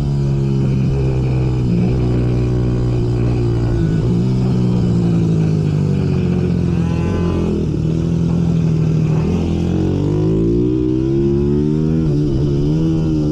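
Several racing minibike engines revving, their pitch climbing and dropping again and again as the bikes accelerate and slow through the corners.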